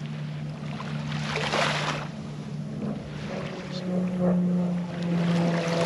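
Small waves washing onto a sandy beach in gusting wind, the swells coming every few seconds, over a steady low hum.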